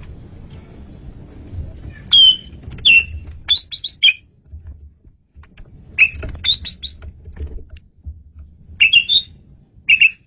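Male Asian pied starling (jalak suren) singing clear, loud phrases of whistles and chatters in three bursts with short pauses between, over a low steady rumble.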